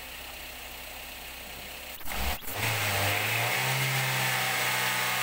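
Fuel-injected Daihatsu Gran Max engine running while throttle-body cleaner is sprayed into its intake. About two seconds in it stumbles briefly, then it runs louder and steady with a hiss over the engine note.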